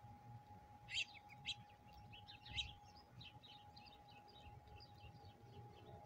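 A small songbird calling: a few sharp high chirps about a second in, then a quick run of short warbling notes that keeps going.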